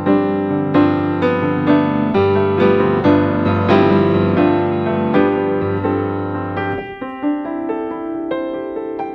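Gentle piano background music, notes struck about twice a second over low held bass notes that drop out about seven seconds in, leaving only the higher notes.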